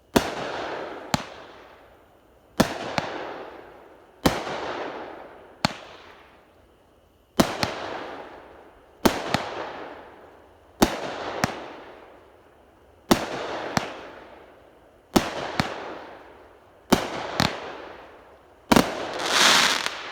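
A 200-gram consumer firework cake (Shogun 'Stars, Stripes & Solids') firing shot after shot. There is a sharp bang every second and a half to two seconds, often two in quick succession, each followed by a fading hissing tail. Near the end a louder, longer crackling hiss swells up and dies away.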